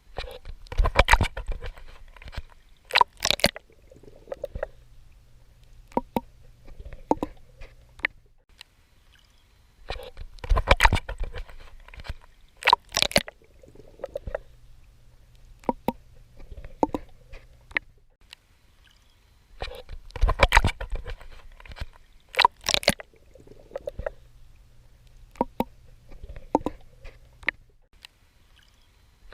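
Water sloshing and splashing from a swimmer's strokes in the sea: a couple of loud splashes, then softer sloshes and drips. The same pattern repeats about every ten seconds, three times.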